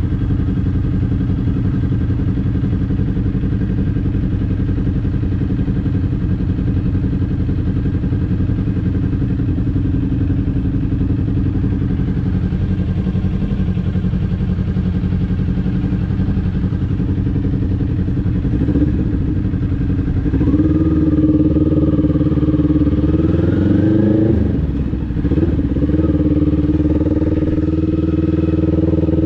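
Kawasaki Ninja 400's parallel-twin engine running steadily at low revs, then about twenty seconds in it gets louder and revs climb as the bike accelerates, with a brief drop in revs at a gear change before it pulls up again near the end.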